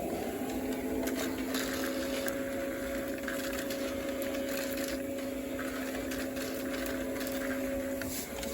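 O gauge model train running on the layout: a steady electric motor hum with scattered light clicks of wheels on the track. The hum dips briefly near the start and again near the end.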